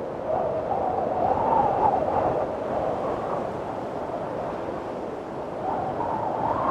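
Windstorm wind blowing in gusts, with a wavering, howling tone over a steady rush. It swells soon after the start, eases off past the middle, and swells again near the end.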